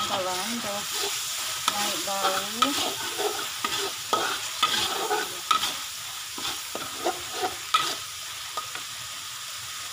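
Spice paste sizzling in hot oil in a steel wok, with a metal spatula scraping and clattering against the pan as it is stirred. The strokes come thick for about eight seconds, then thin out while the sizzle carries on.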